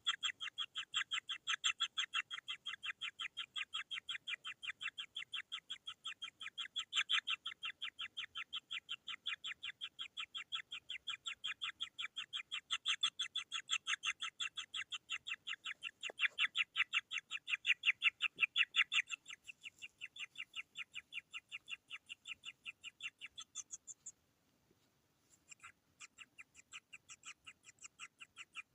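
Kingfisher chicks calling hungrily in a fast, unbroken train of high chirps, about six a second. The calls stop briefly about three-quarters of the way through, then start again.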